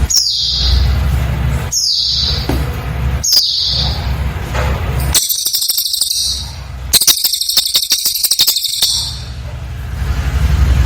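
Cililin bird singing: three short, high whistles that slide downward, about a second and a half apart. These are followed by a dense, rapid high trill and then a fast chattering run of sharp notes, over a steady low rumble.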